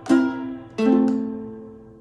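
Ukulele strummed twice, the second chord held and left to ring out and fade: the closing chord of the song.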